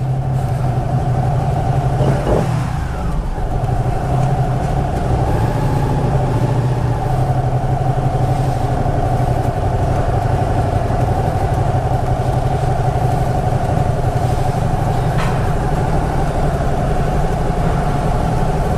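Motorcycle engine running at a steady pace while riding, with wind and road noise over it.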